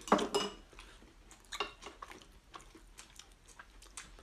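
A person chewing and eating from a bowl with chopsticks: scattered small clicks and crunches, with one louder knock right at the start.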